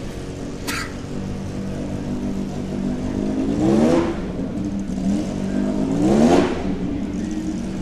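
Ferrari Testarossa Spider's flat-twelve engine idling and blipped twice, the revs climbing and dropping back about three and a half and six seconds in. A short click under a second in.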